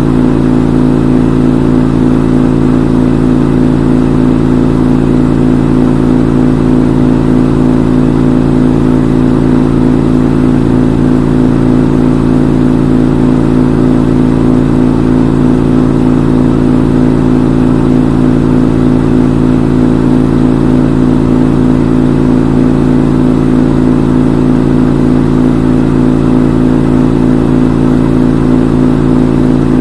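Front-load washing machine in its spin cycle, the drum and motor running at a steady high speed with a constant hum and whir.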